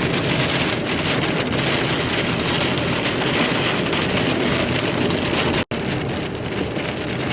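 Steady rain and road noise inside a car driving on the highway through a storm's heavy rain bands. The sound cuts out for an instant about two-thirds of the way through.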